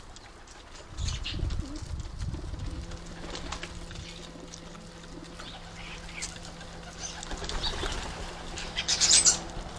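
Garden birds at a feeder: scattered short chirps, a louder call about nine seconds in, and low pigeon sounds with wing flaps.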